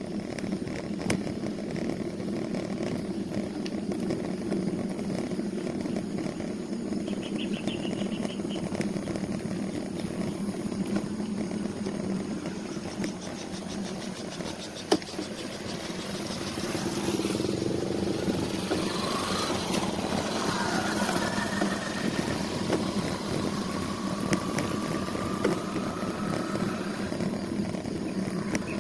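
Steady rumble of riding along a road, with a motor vehicle passing about two-thirds of the way through, its engine pitch rising and falling.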